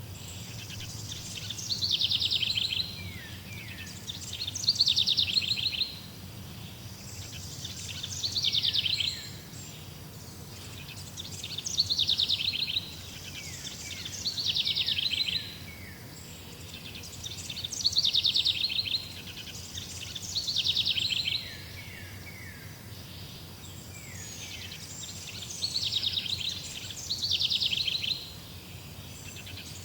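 A songbird singing the same short phrase over and over, about once every three seconds. Each phrase is a quick high trill with a few short falling notes.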